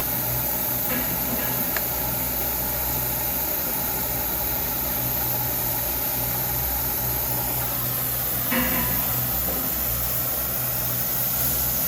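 Steady low machine hum under a constant hiss, with a few faint knocks, the clearest about eight and a half seconds in.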